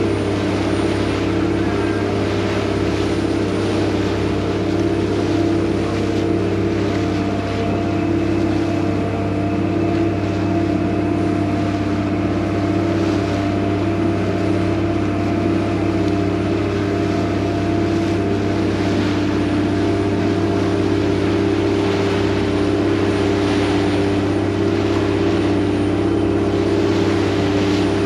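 Vaporetto water bus engine running steadily under way: a constant low drone with several steady hum tones, and a steady hiss above it.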